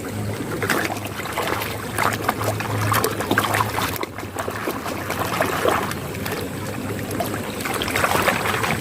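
Fast-flowing stream water splashing and sloshing as a mud-caked toy vehicle is rinsed and scrubbed by hand in the current, with irregular splashes throughout.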